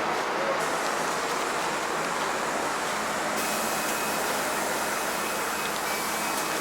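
Steady ride noise of a city bus moving along, a continuous even hum and hiss with faint steady whine tones.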